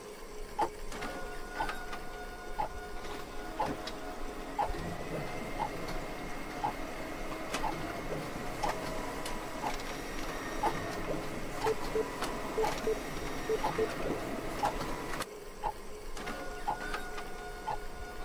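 A clock ticking about once a second over a steady mechanical hum made of several held tones. A higher tone rises and holds from about a quarter of the way in.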